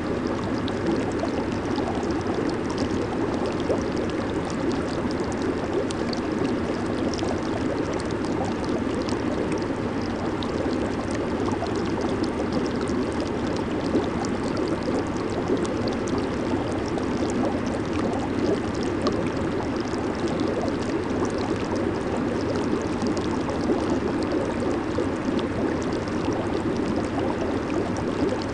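Hot tub water bubbling and churning in a steady rush, with small bubble pops and fizz on top.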